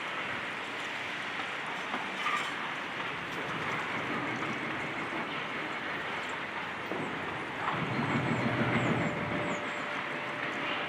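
High-reach excavator and demolition work on a building: a steady mechanical din that swells for about two seconds around eight seconds in.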